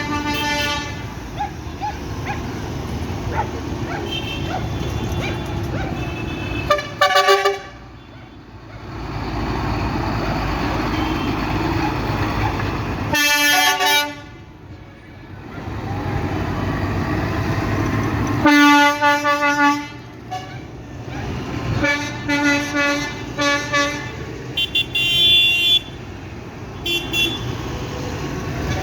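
Vehicle horns sounding again and again, in several separate blasts of a second or two each, over the steady low rumble of passing tractor engines.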